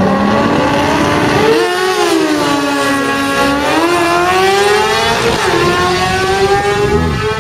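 Sport motorcycles accelerating hard down a drag strip, the engine note climbing and then dropping sharply at upshifts, about a second and a half in and again near five and a half seconds.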